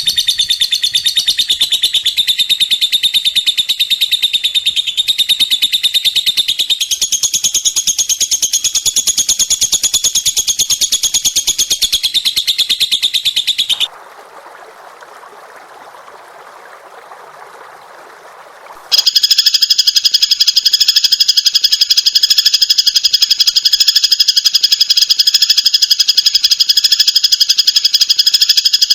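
Recorded songbird song of the kind used to tutor cage birds: a loud, very fast unbroken trill, shifting in pitch, for about 14 seconds, then a few seconds of faint hiss, then a second rapid buzzing trill that holds steady to the end.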